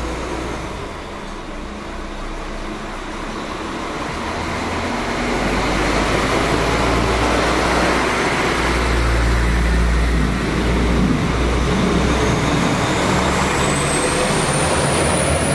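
Train passing: a steady rail rumble that grows louder after a few seconds. Near the end a high whine rises in pitch.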